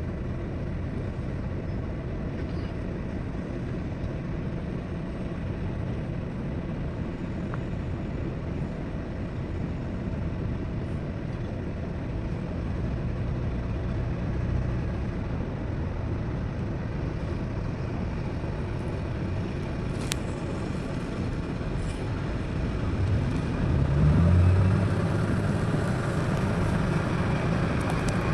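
Heavy diesel engine of an excavator or dump truck running steadily, with a deep low rumble; it swells louder for a couple of seconds near the end, as under load or revving.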